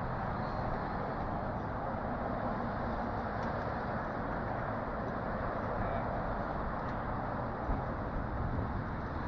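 Steady outdoor background noise, an even rush with no single clear source standing out.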